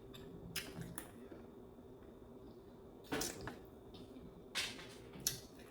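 Eating sounds: a few short, light clicks of a spoon or fork against a plate, with wet mouth sounds of chewing between them.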